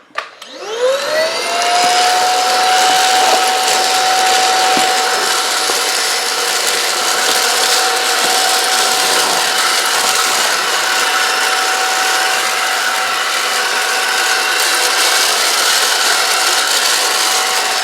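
Aspiron cordless stick vacuum's 250 W brushless motor switched on with no attachment fitted: a whine that rises in pitch as it spins up, then runs steadily with a strong airy hiss.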